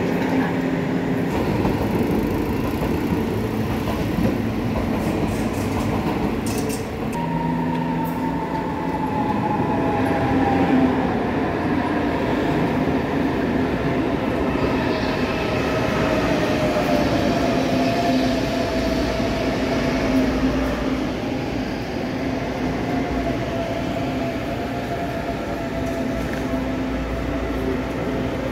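Electric train running with a steady hum and a motor whine that starts about a quarter of the way in, falls in pitch over about ten seconds, then holds steady.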